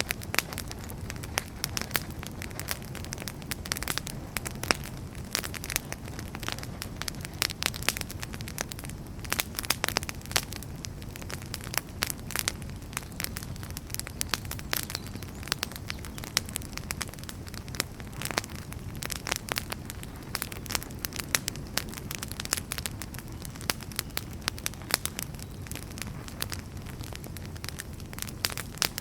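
Wood fire burning steadily, with a low rumble and frequent irregular crackles and sharp pops from the firewood.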